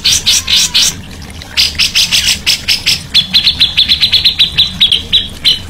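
Songbird calling in harsh chattering strokes, then from about three seconds in a fast run of short, sharp notes, around ten a second.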